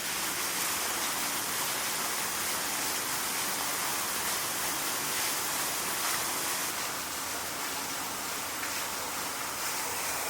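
Hot spring water running steadily into a bath, an even rushing noise with no breaks.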